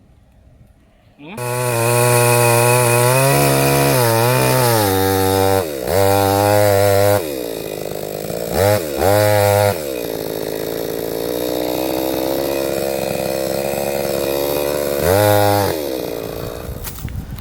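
Salemmaster petrol chainsaw's two-stroke engine cuts in sharply about a second in. It is revved high several times with drops in between, then runs lower and steadier, is blipped once more, and fades out near the end.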